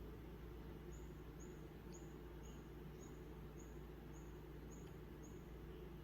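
A small bird giving a steady series of short, high-pitched chirps, about two a second, over a faint, steady low hum.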